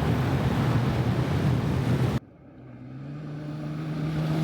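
Vehicle driving, a steady engine hum under heavy road and wind noise. About two seconds in it cuts off abruptly to a quieter engine hum that gradually grows louder.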